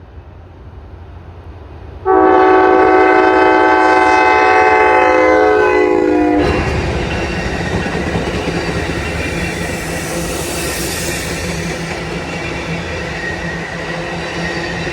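Train horn sounding one long multi-note blast of about four seconds, its pitch dipping slightly just before it stops. The train then rolls past close by, with steady wheel and rail noise.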